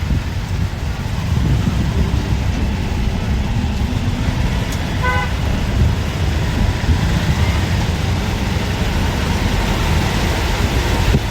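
Steady low rumble of a moving bus heard from inside, engine and road noise together. About five seconds in, a vehicle horn gives one short toot.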